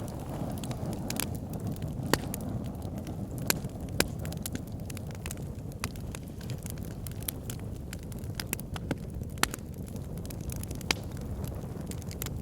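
Backyard fire pit burning, with a steady low rush of flame and irregular crackles and sharp pops throughout.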